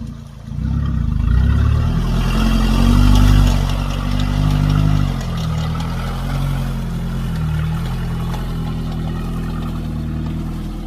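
First-generation Isuzu Trooper's engine pulling hard and revving up for a few seconds, then easing to a steadier, lower running from about five seconds in.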